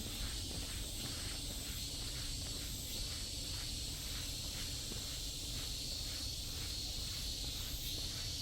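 Footsteps on a forest trail at a steady walking pace, about two a second, under a continuous high-pitched insect drone that pulses in strength, typical of summer cicadas.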